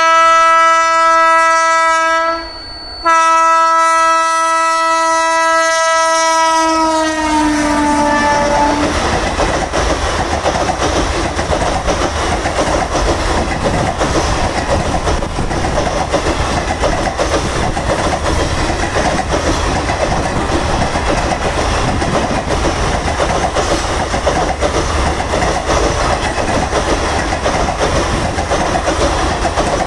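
A locomotive horn sounds two blasts, a short one and then a longer one whose pitch drops as the train goes past. The train then rushes by, its coaches rumbling and clattering over the rail joints.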